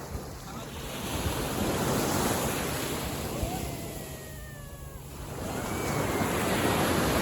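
Small waves of a calm sea washing in, the rush swelling twice, about five seconds apart.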